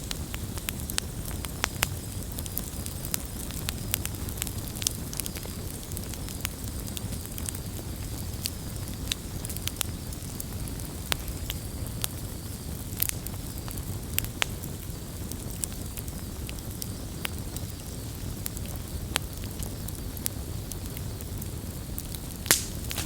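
Wood campfire burning with a steady low rumble and frequent sharp crackles and pops scattered irregularly, one louder pop near the end.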